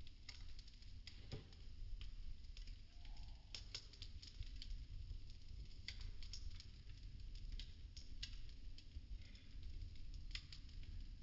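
Burning popsicle-stick wood crackling, with irregular sharp snaps and pops, several close together, over a steady low rumble.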